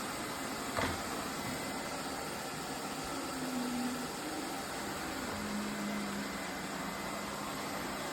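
Lefant M330 Pro robot vacuum running with a steady whirring hum whose pitch shifts slightly now and then. There is a single sharp click about a second in.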